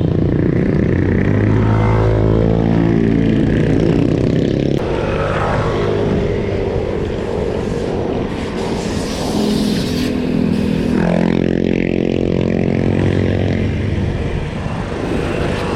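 Road traffic heard from a bicycle: motor vehicle engines passing close by, over a steady low rumble. Twice an engine's pitch sweeps as it goes past, once early and once about two-thirds of the way through.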